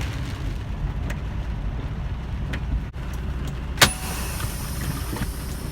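Semi truck engine running with a steady low rumble, with one sharp click about four seconds in.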